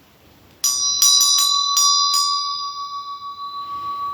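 A bell struck about half a second in, then hit several more times quickly over the next second and a half, leaving a long, clear ringing tone that fades slowly.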